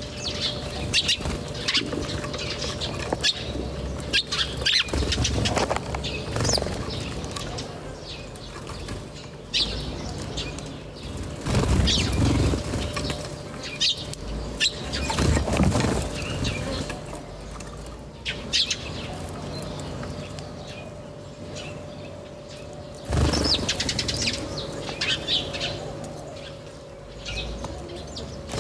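Birds chirping, with many short, high calls throughout, and a few louder low rustling bursts, such as wings flapping, about twelve, fifteen and twenty-three seconds in. A faint steady hum runs underneath.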